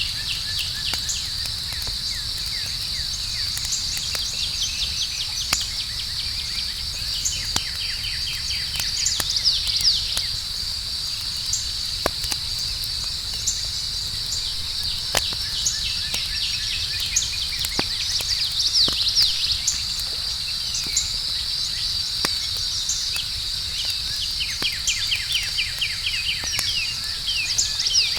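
Steady high-pitched chorus of night insects, with stretches of rapid chirping, over a campfire crackling with scattered sharp pops.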